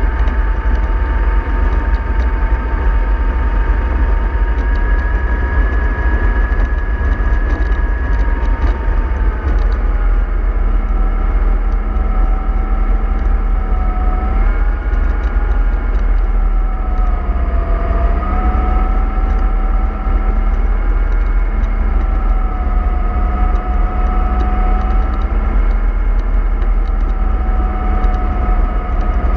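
Remote-control model of a MAN 24.310 bus running along, its motor whining steadily over a heavy low rumble. The whine drops in pitch about ten seconds in, dips again around eighteen seconds and then holds with small rises and falls.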